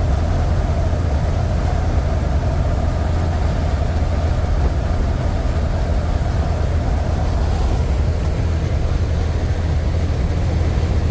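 1990 Kenworth K100 cab-over truck cruising on the road, heard from inside the cab: a steady low diesel engine drone with road noise.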